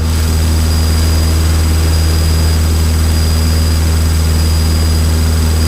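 Cessna trainer's four-cylinder piston engine and propeller droning steadily, heard loud inside the cabin in flight.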